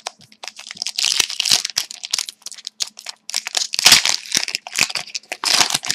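A hockey card pack's wrapper being torn open and crinkled by hand, in irregular crackling rustles that are densest about a second in, around four seconds, and near the end.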